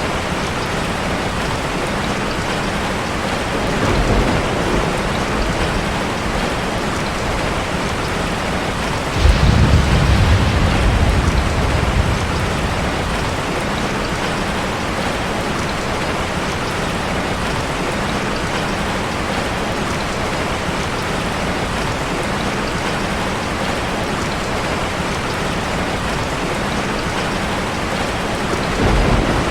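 Heavy rain hitting a car, heard from inside as a steady hiss. Low rumbles of thunder swell briefly about four seconds in, more strongly for about three seconds from nine seconds in, and again near the end.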